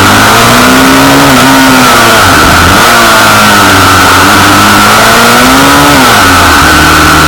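Pit bike's small single-cylinder engine revving, its pitch rising and falling several times as the throttle is opened and closed. The sharpest fall comes near the end.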